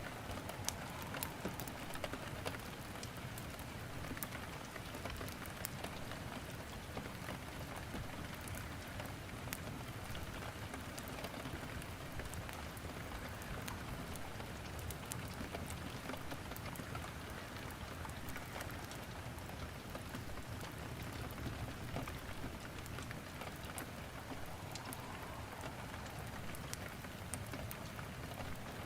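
Steady rain falling, with scattered sharp crackles and pops of burning firewood in a fireplace.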